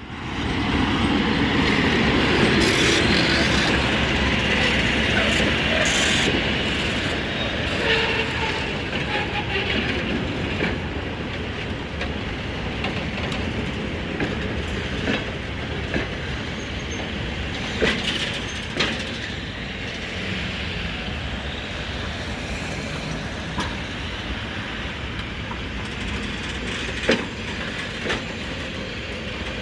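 A freight train rolling past: a steady rumble and hiss of wagon wheels on the rails, loudest in the first few seconds and easing a little after, with occasional sharp clanks from the wagons.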